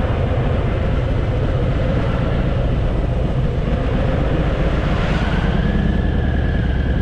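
Harley-Davidson motorcycle's V-twin engine running steadily while riding, a continuous low rumble. A thin higher whine rises and then holds from about five seconds in.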